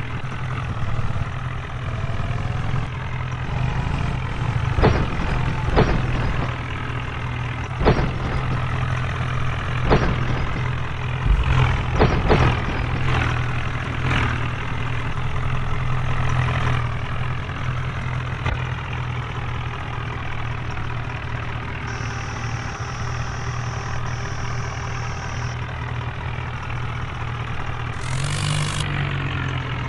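HMT tractor's diesel engine idling steadily, with a run of sharp knocks and clanks in the first half and a short burst of noise near the end.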